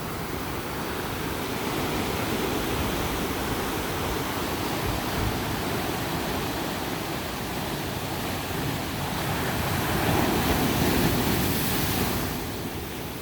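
Ocean surf breaking and washing up a sandy beach: a steady rush of water that swells louder about two-thirds of the way through as a wave comes in, then eases. Some wind buffeting on the microphone.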